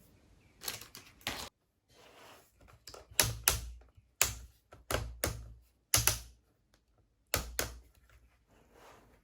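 Sharp clicks and knocks of hard plastic being handled, coming irregularly in groups of two or three with short gaps.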